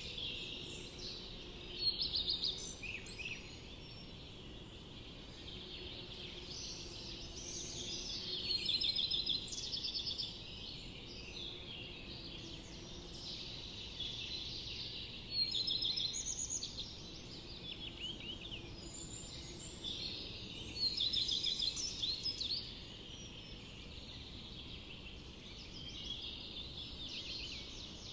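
Forest songbirds singing, several overlapping chirps and trills, with louder bursts of song about every six seconds, over a steady low background hiss.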